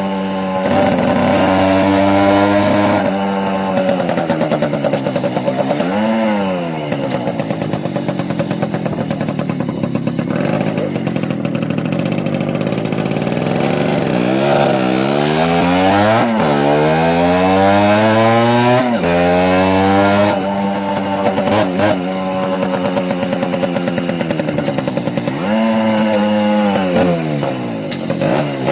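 Small motorbike engine running under load during a ride, its pitch repeatedly climbing and falling as it is revved up and eased off.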